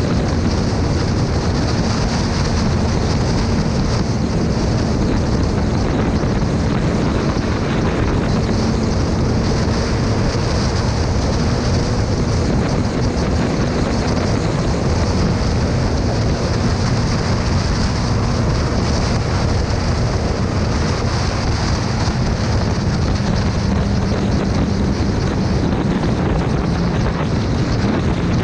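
Motorcycle riding at a steady road speed: the engine's steady drone under heavy wind rushing over the microphone, the engine note dropping slightly near the end.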